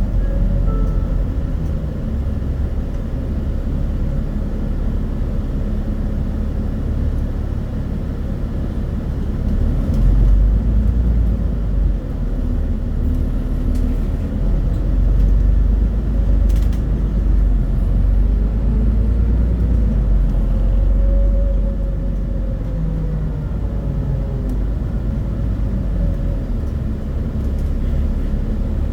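Scania Citywide city bus driving, its diesel engine giving a steady low rumble that grows stronger about ten seconds in. A faint whine rises and then falls around the middle.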